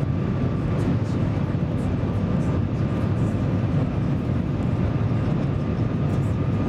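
Cabin noise on board the Shanghai maglev train in motion: a steady low rumble and rush, with a faint high steady whine.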